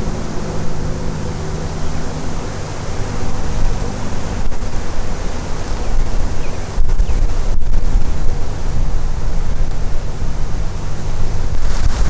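Strong wind gusting and buffeting the microphone: a loud, uneven rush that swells and eases from moment to moment.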